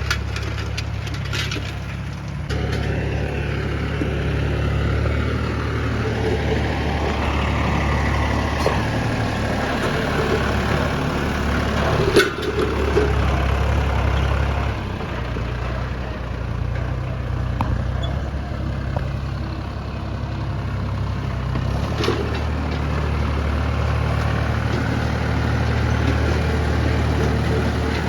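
Mahindra 265 DI tractor's three-cylinder diesel engine running steadily while pulling a harrow through a field. Two sharp knocks stand out, one about halfway through and one later on.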